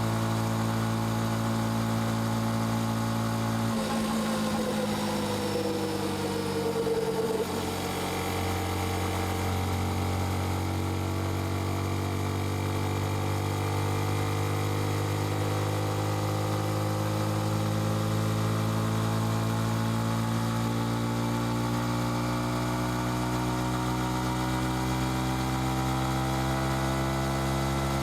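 Yamaha XSR155's single-cylinder engine running through its exhaust while riding. About four seconds in the note breaks up and falls in pitch for a few seconds, then it settles again and the pitch rises slowly as the bike gathers speed.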